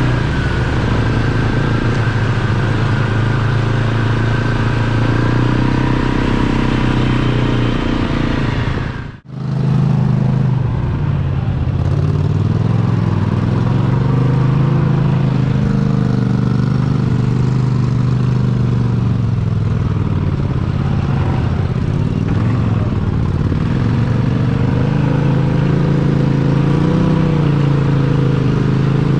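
Mega truck engine running loud and steady, its pitch rising and falling a little with the throttle. The sound drops out abruptly for a moment about nine seconds in.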